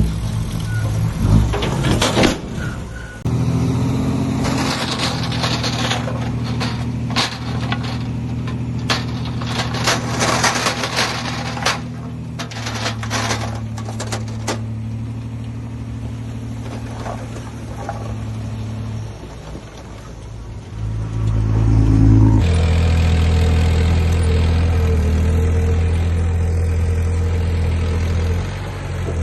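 Heavy diesel engines of earthmoving machines running. The engine note changes abruptly several times, as the clips are spliced together. Clanks and knocks sound in the middle stretch.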